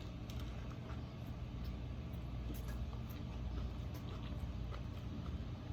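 Faint crunches of a taco being chewed over a steady low hum from a fan and an open window.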